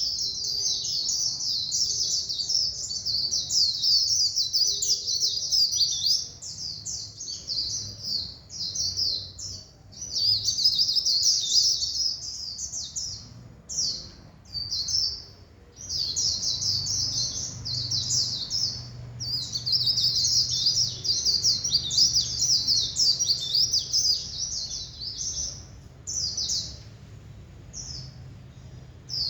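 White-eye (vành khuyên) singing its rapid 'líu' song: long runs of fast, high-pitched twittering, broken by a few short pauses.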